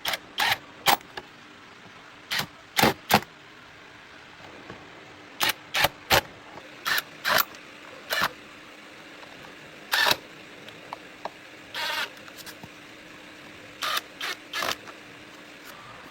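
Hand tools clicking and clanking on metal parts: a string of short, sharp, irregular knocks, some in quick pairs.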